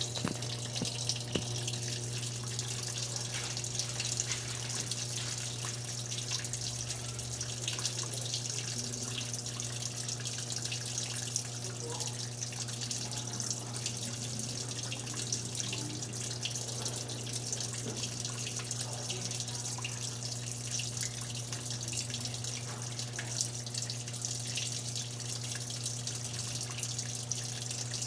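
Electrolux Turbo Economia LTE12 washing machine filling its tub, water pouring and splashing in steadily over a constant low hum.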